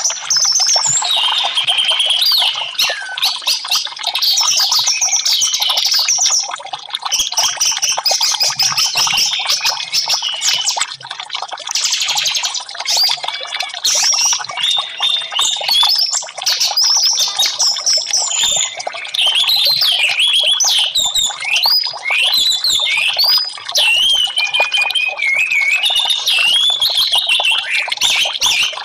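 Orange-headed thrush song: a long, continuous run of rapid, varied whistles, trills and slurred notes, over a steady hiss of trickling water.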